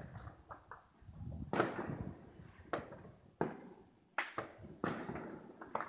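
Neighborhood fireworks going off: a run of about eight sharp, irregularly spaced bangs and pops, each trailing off in an echo, the loudest about a second and a half in and again about four seconds in.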